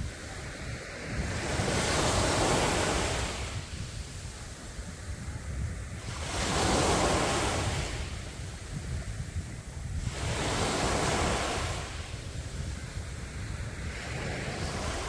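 Sea waves breaking on a beach, the surf swelling and falling back about every four to five seconds, with wind rumbling on the microphone.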